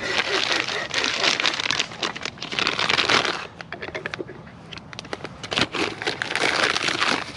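Rustling and crinkling handling noise with many small clicks, in two spells: one for about three seconds, then a shorter one near the end.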